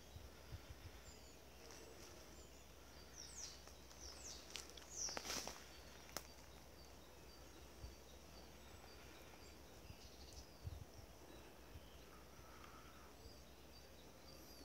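Near silence with faint birds calling: a string of short high chirps repeating about once or twice a second, and a few louder sweeping calls a few seconds in.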